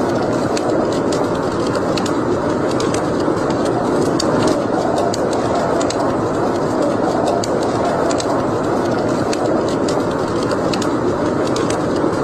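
Wood fire burning in a fireplace: a steady rush of flames with frequent small crackles and pops scattered through it.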